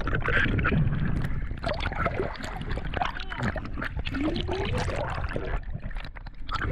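Water sloshing and trickling around a small boat, with scattered knocks and clicks from handling gear.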